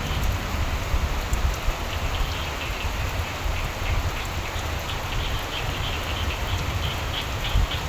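Steady rainfall with a low rumble underneath, and from about two seconds in a frog croaking in quick runs of short repeated high notes.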